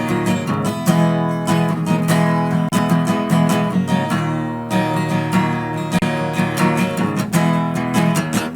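Acoustic guitar strumming chords in a steady rhythm, an instrumental passage of a rock song with no singing.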